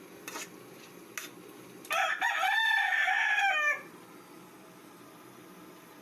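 A rooster crowing once, a call of nearly two seconds that ends by dropping in pitch, with two light clicks before it in the first second or so.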